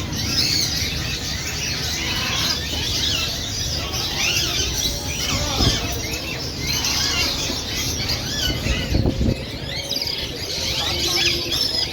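A group of parrots calling over one another: many short, overlapping chirps and squeals that glide up and down. Underneath there is a low rumble, with two dull thuds about six and nine seconds in.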